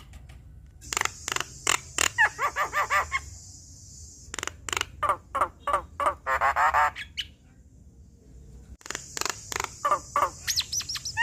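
Javan myna (jalak kebo) singing a varied chattering song in three bouts: rapid clicking notes and harsh hissing rasps, a bubbling warble in the middle, and quick whistled down-slurs near the end.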